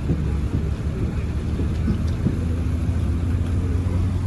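Road traffic: motor vehicles running with a steady low rumble.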